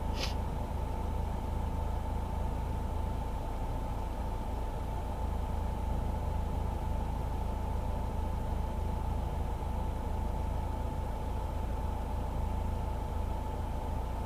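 Citroen DS being driven: a steady low rumble of engine and road noise, with a faint steady high tone over it. A short high squeak comes right at the start.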